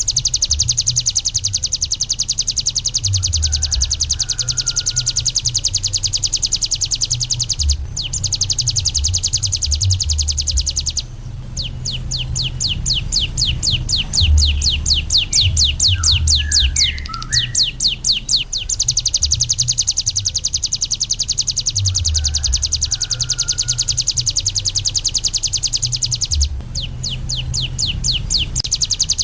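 Ciblek gunung (a mountain prinia) singing a long, very fast trill of high notes, breaking into slower, separately sounded notes from about 12 to 18 seconds in, with two brief pauses. A low, uneven rumble runs underneath.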